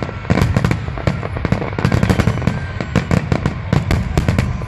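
Aerial fireworks going off in a rapid, overlapping barrage: many sharp bangs and crackles a second over a continuous low rumble of booms.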